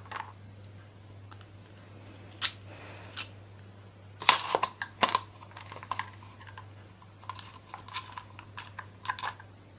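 Large screwdriver working the screws out of a ceiling fan's metal housing: irregular metallic clicks and scrapes, a cluster of sharper knocks about halfway through, then a run of quick small ticks near the end.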